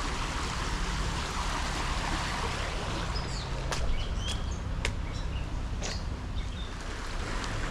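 Steady rushing of river water, with a low steady hum underneath and a bird chirping several times in the middle.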